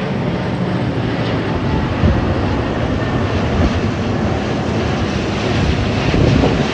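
Airbus A380's four jet engines as the airliner passes: a loud, steady jet noise that grows a little louder near the end.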